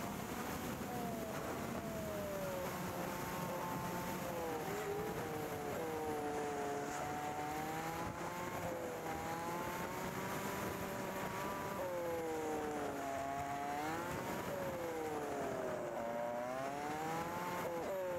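Motorcycle engine running while riding along, its pitch rising and falling with the throttle, with two climbs near the end. Steady wind hiss lies underneath.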